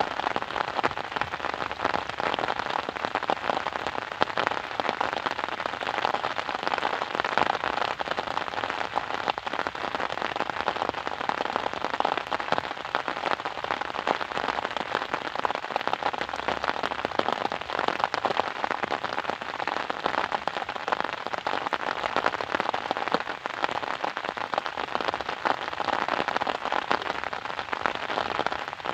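Steady rain falling: an even, dense hiss of drops with fine crackly ticks, unchanging throughout.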